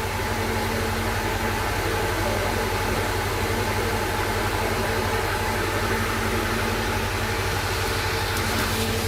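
Steady hum with hiss and several steady low tones, unchanging, from a continuously running machine or electrical source.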